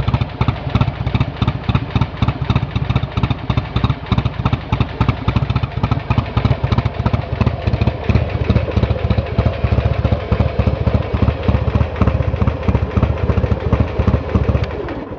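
Buell XB9R's air-cooled V-twin idling steadily through a Pro Race aftermarket exhaust, a loud, even run of firing pulses. It cuts off right at the end.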